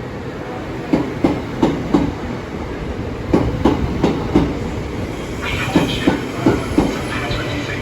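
Southeastern Class 375 Electrostar electric multiple unit running through the station, its wheels knocking over rail joints in a steady clickety-clack: groups of four knocks about every two and a half seconds over a continuous rumble. A higher ringing joins in for the last couple of seconds.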